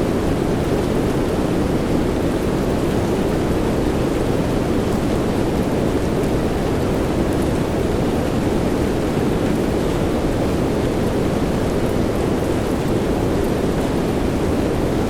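Steady rain, a dense, even hiss weighted toward the low end, with a few faint ticks of drops.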